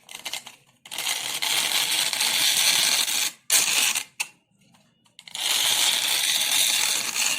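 A sewing needle stuck through a chart-paper cone scratching across sandpaper: two long, loud scratchy strokes with short scrapes between them. The paper cone acts as a sounding board that makes the needle's vibration louder.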